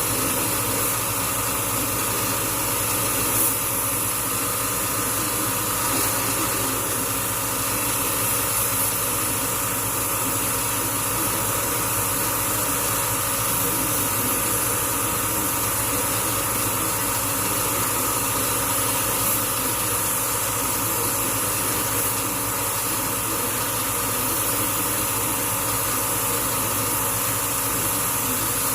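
Steady mechanical running noise with a constant high hiss, unchanging throughout.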